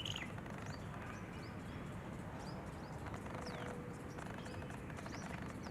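Several small birds chirping, with short high calls scattered throughout and one louder call right at the start, over a steady low rumble.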